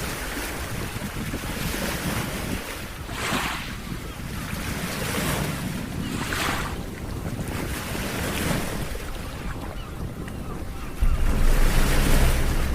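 Ocean waves washing onto a beach, the surf swelling and falling every few seconds, with wind rumbling on the microphone. Music comes in loudly near the end.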